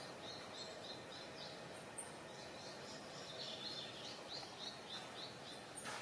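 A bird calling two quick runs of short, high chirps, about three to four a second, over a steady background hiss of forest ambience.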